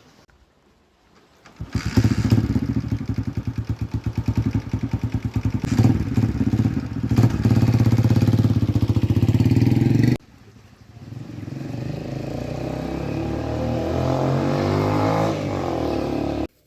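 A small engine running. About two seconds in it starts with a rapid putter, then runs steadily and cuts off suddenly. It comes back rising in pitch as it speeds up, then cuts off suddenly again.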